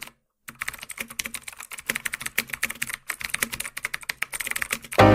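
Rapid, irregular clicking of keyboard typing, starting about half a second in and giving way to loud music right at the end.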